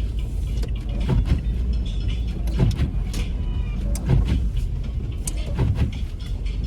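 A car driving slowly through snow, heard from inside the cabin. A steady low rumble runs throughout, broken by irregular knocks and crunches.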